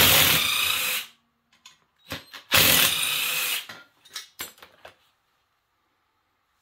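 Cordless drill-driver running in two bursts of about a second each, with small clicks of handling between them, while fasteners are being removed from a small engine.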